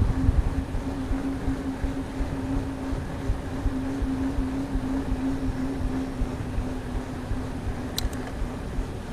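Mountain bike rolling along at speed: a steady low hum over the rumble of the tyres and wind buffeting the microphone, with one sharp click about eight seconds in.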